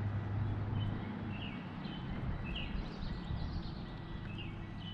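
Open-air lake ambience: a low, steady rumble under a bird's short, high chirps repeating every half second or so.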